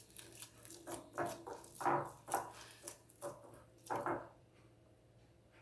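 Boiled potatoes being mashed in a bowl: soft, uneven squishing strokes, about two a second.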